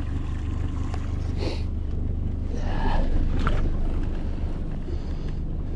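A boat's outboard motor running low and steady, with wind on the microphone; a louder, brief noisy stretch comes about halfway through.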